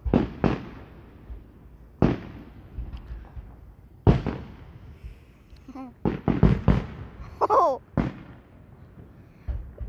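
Aerial fireworks shells bursting overhead: about ten sharp bangs, each with a short echoing tail, coming irregularly with a quick cluster of several just past the middle.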